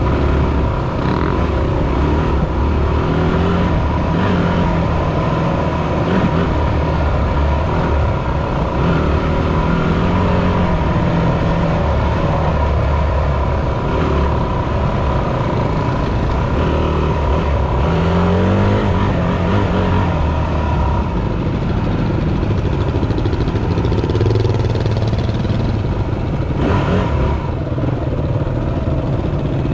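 Yamaha WR250F four-stroke single-cylinder dirt bike engine running under way, its revs rising and falling as it is ridden.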